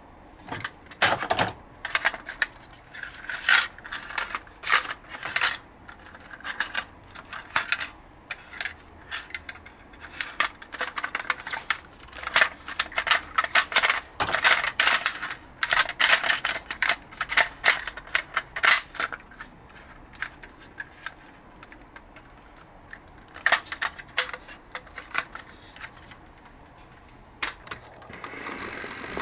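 Irregular clicks, taps and short scrapes of plastic and cardboard as a toy garbage truck is handled and packed into a cardboard box.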